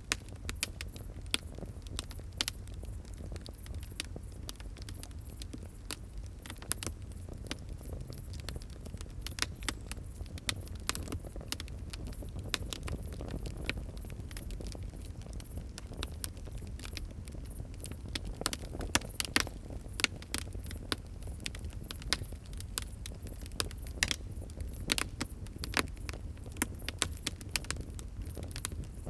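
Wood fire crackling: irregular sharp pops and snaps over a low, steady rumble of the burning.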